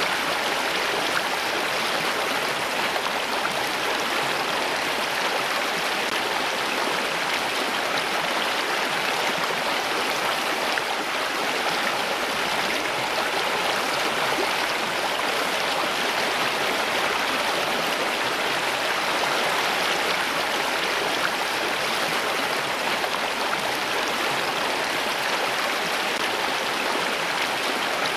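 Flowing water from a stream or small waterfall, a steady, unbroken rush.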